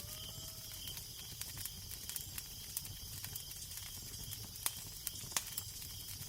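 Fireplace fire crackling, with irregular sharp pops, a few louder ones near the middle, over a steady low rumble. In the first second a drawn-out pitched howl slides up slightly and fades.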